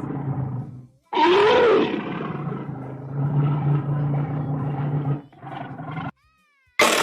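A loud animal roar sound effect that starts suddenly about a second in, rising then falling in pitch, and trails on as a rough growl for several seconds before cutting off.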